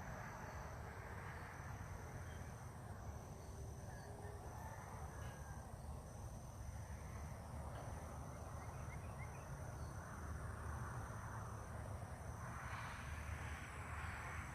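Outdoor natural ambience: a low steady rumble of wind on the microphone under a steady high insect drone, with a short high chirp repeating about once a second.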